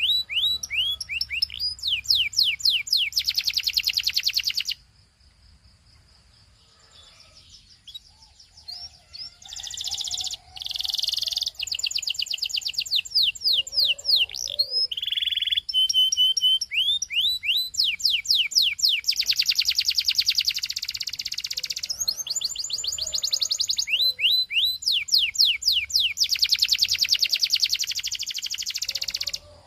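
Belgian canary singing: fast runs of repeated falling whistles and dense rolling trills. It breaks off about five seconds in, then resumes at about nine seconds and sings continuously until just before the end.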